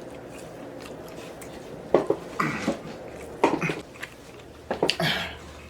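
A person chewing food close to the microphone: wet mouth smacks come in four short bursts, around two, two and a half, three and a half and five seconds in, between stretches of quiet chewing.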